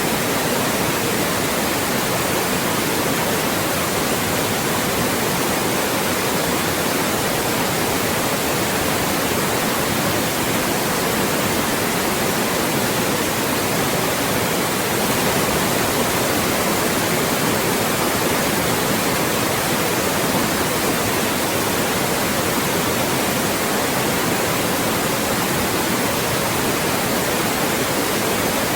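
Loud, steady white noise: an even, unchanging hiss with no tones or breaks.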